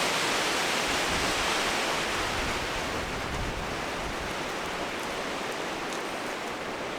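Steady rushing of wind, which starts abruptly and eases slightly over the seconds.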